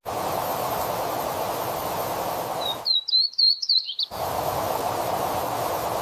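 Steady outdoor rushing noise, cut out for about a second near the middle by a short, high, wavering warble from a small songbird.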